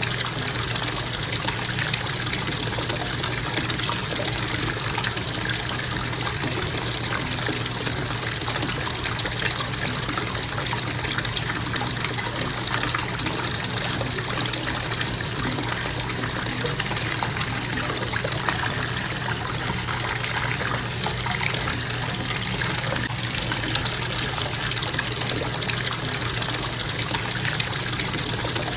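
Bathtub faucet running in a steady, constant stream of water.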